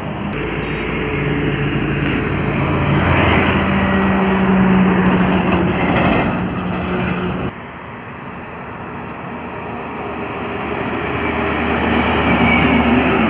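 Heavy trucks passing on a highway: a low diesel engine drone with tyre and wind noise that swells as a truck goes by. The sound drops off suddenly about halfway through, then builds again as another truck approaches.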